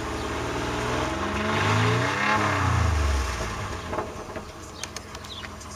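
Nissan 300ZX 3.0-litre V6 engine blipped once, its pitch climbing to a peak about two seconds in and dropping back, then settling to a quieter idle. A few sharp clicks sound near the end.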